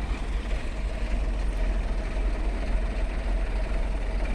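Heavy truck engine running steadily at low revs, a deep even rumble.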